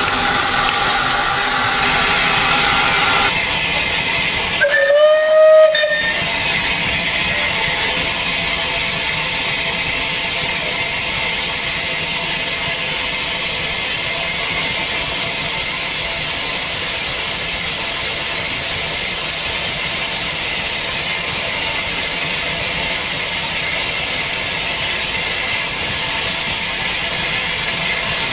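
Steam locomotive whistle giving one short blast about five seconds in, over a steady hiss of escaping steam.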